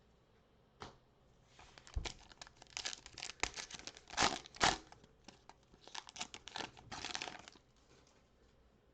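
A trading-card pack wrapper being torn open and crinkled in the hands: a run of short ripping and crackling strokes from about a second and a half in until near the end.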